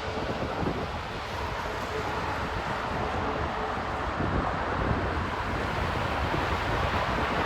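Steady jet airliner noise, growing a little louder near the end.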